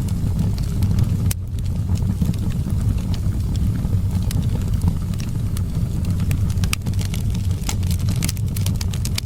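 Wood fire crackling, with frequent sharp pops and a flurry of them near the end, over a steady low rumble of wind.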